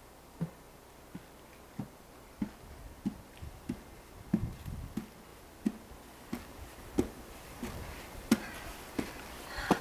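A hiker's steady footsteps on a climbing trail: short sharp taps at an even walking pace, about three every two seconds.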